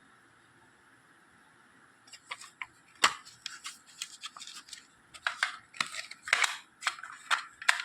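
Plastic audio cassette cases being handled, with irregular sharp clicks and clatter starting about two seconds in, the loudest click about a second later.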